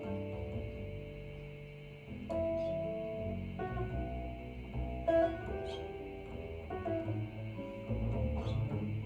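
Jazz recording playing over a home stereo's loudspeakers and picked up live by a microphone in the room: plucked notes that ring and fade over a bass line.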